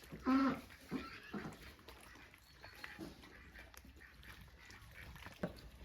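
A farm animal's short call about half a second in, followed by a fainter call, then faint scattered clicks and rustling.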